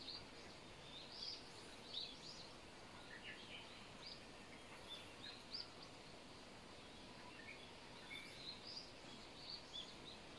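Faint outdoor ambience with small birds chirping in short, scattered high calls.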